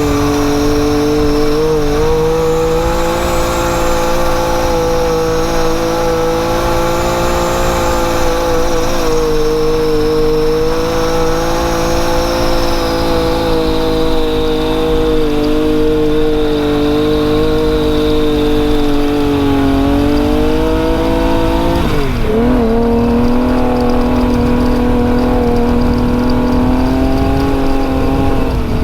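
Big-turbo Yamaha YXZ side-by-side's built three-cylinder engine running hard at high revs, with a faint high whine above the engine note. About two-thirds of the way through, the revs drop sharply and pick back up.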